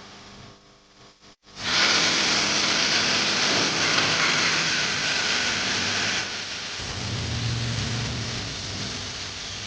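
Loud frying sizzle from a cooking pot, starting suddenly after a quiet second and a half, hissing strongly until about six seconds in and then settling to a softer steady sizzle.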